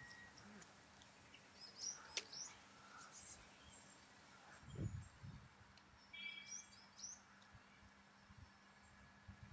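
Faint outdoor quiet with small birds chirping in two short bouts, about two seconds in and again about six seconds in, and a low thump near five seconds.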